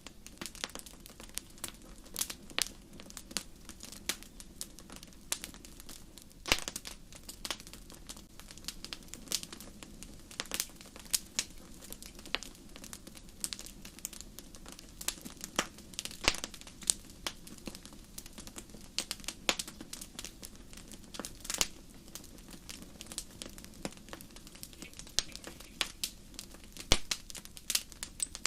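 Wood fire burning in a fireplace, crackling and popping: many sharp cracks at irregular moments over a low steady hiss of the flames.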